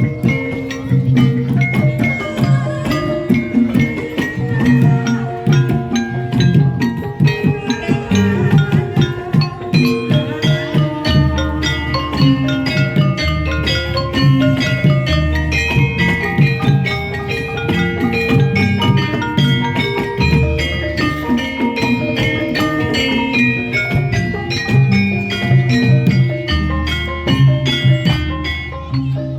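Gamelan ensemble playing Jaranan accompaniment: metallophones and gong-chimes strike fast, interlocking melodic patterns over hand drums, with deep low notes coming back every few seconds.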